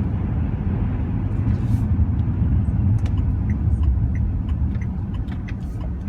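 Steady low rumble of a cargo van driving, heard from inside the cab, with faint scattered clicks and rattles.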